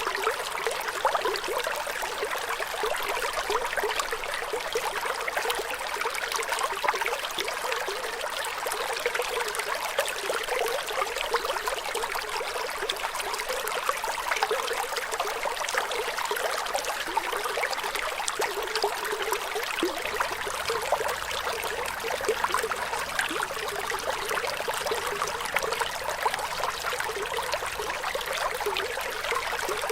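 Running water of a small stream, trickling and splashing steadily without a break.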